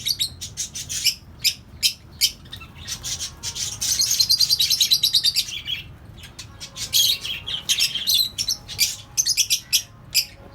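A flock of lovebirds chattering, with dense runs of rapid, high-pitched chirps broken by short pauses.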